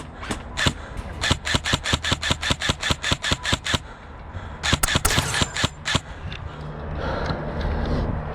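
Airsoft rifle firing a rapid string of shots, about six a second, for most of four seconds, then a second, shorter string about five seconds in.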